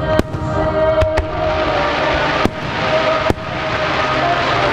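Aerial fireworks shells bursting: about five sharp bangs, over a dense hiss of burning stars that builds from about a second and a half in.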